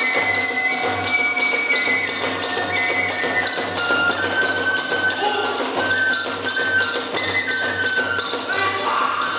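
Kagura hayashi accompaniment: a transverse flute playing long held notes that step up and down, over an even beat of drums and clashing percussion.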